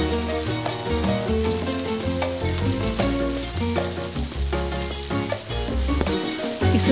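Chopped onion sizzling in hot oil in a non-stick wok as it is stirred with a wooden spatula, over background music with a bass line.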